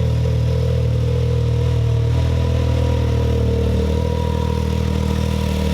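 Can-Am Maverick X3's turbocharged three-cylinder engine idling steadily on a freshly fitted Evolution Powersports full exhaust with the catalytic converter deleted, warming up. The idle settles slightly about two seconds in.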